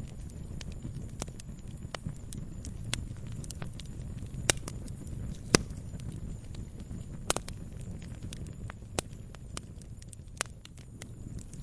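Campfire crackling: irregular sharp pops and snaps of burning wood over a low steady rumble, the loudest pop about halfway through.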